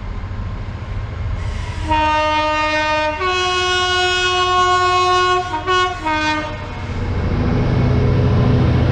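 Railway locomotive sounding its two-tone horn: a low note, then a longer higher note, then a couple of short notes. A low engine rumble then grows louder as the train comes through.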